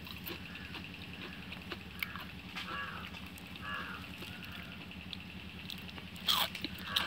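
Crunching and chewing of crispy deep-fried banana flower pakoda, gram-flour fritters, with soft small crunches and a louder sharp crunch about six seconds in.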